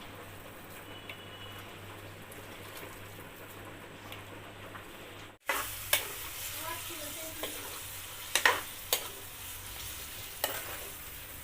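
Chicken kofta mixture being mixed in a bowl: a soft, continuous stirring noise. It drops out briefly about halfway, then comes back louder with a few sharp knocks against the bowl.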